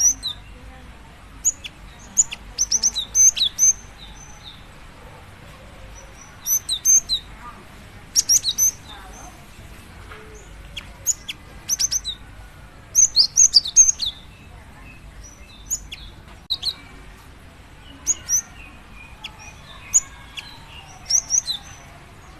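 Female cinereous tit (gelatik batu) calling to a male: short, sharp, high chirps in quick clusters, repeated every second or few seconds with short pauses between groups.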